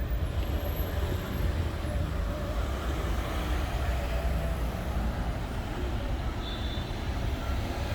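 Steady road traffic noise: a continuous low rumble of vehicles passing, with no single event standing out.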